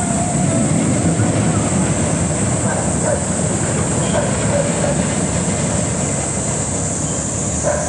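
Steel roller coaster train running along its track, a steady rumble.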